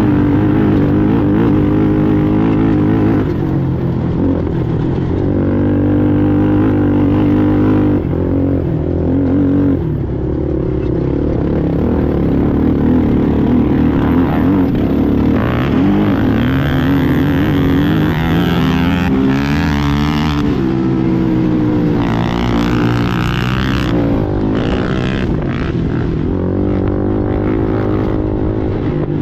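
Racing ATV engine running hard, its pitch rising and falling repeatedly as the throttle is worked on and off.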